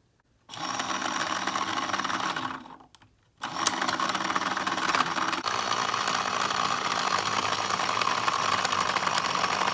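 Small battery-powered mini washing machine for makeup sponges running its little motor with a steady whir. It starts about half a second in, stops after about two seconds, and starts again a second later.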